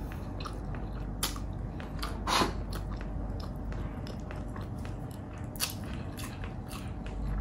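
A person chewing a mouthful of food up close, with many small mouth clicks, one louder about two and a half seconds in.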